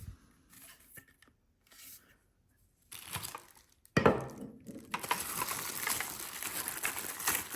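Packaging crinkling and tearing as the snow brush's extension tube is unwrapped: quiet at first, then rustling, a sharp click about four seconds in, and steady crinkling from then on.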